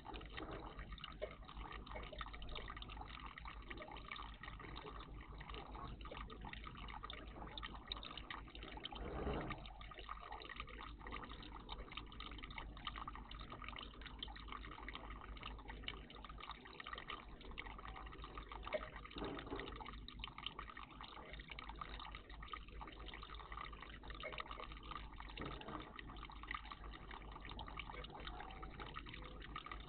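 Steady trickling and dripping of water in a garden bird bath, with a few brief louder sounds about nine, nineteen and twenty-five seconds in.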